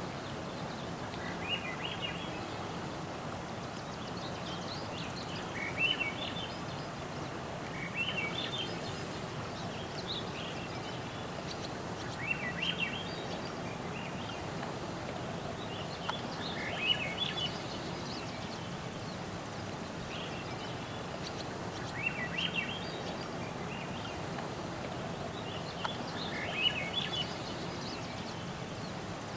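A small bird singing short chirping phrases every few seconds over a steady outdoor hiss.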